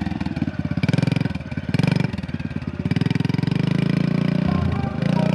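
Kawasaki KLX110's small four-stroke single-cylinder engine running as a beginner rides, its revs surging in short on-off bursts and then held steadier in the last couple of seconds: the uneven throttle of a new rider chopping the throttle.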